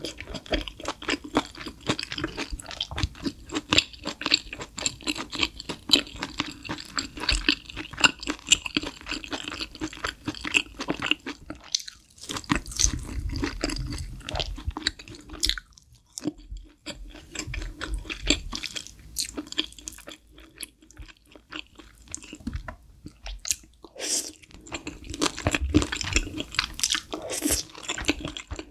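Close-miked chewing of grilled beef intestines (gopchang and daechang): dense wet, crunchy chewing and mouth smacking, with a couple of brief pauses. Near the end there is a mouthful of spicy stir-fried noodles.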